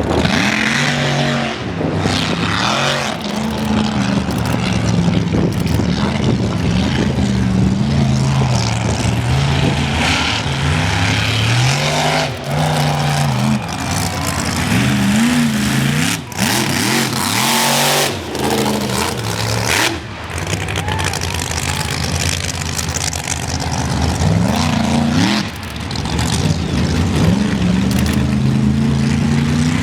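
Mega truck engine revving hard under load, its pitch rising and falling again and again as the throttle opens and closes, with a few brief noisy bursts along the way.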